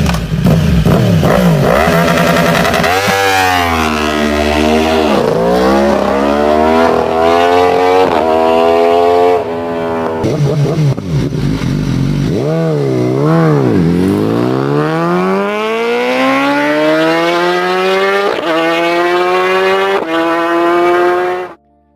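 Big sport motorcycle engines revving hard, with pitch sweeping up and dropping back again and again. Near the end one engine pulls in a long rising run broken by several steps, like upshifts, before the sound cuts off abruptly.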